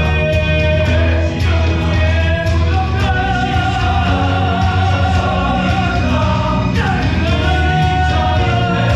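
Stage-musical ensemble number: voices singing long held notes together over a loud rock-style accompaniment with a heavy bass line.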